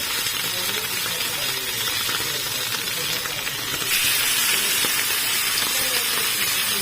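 Tilapia frying in hot oil, a steady sizzle that grows a little louder about four seconds in.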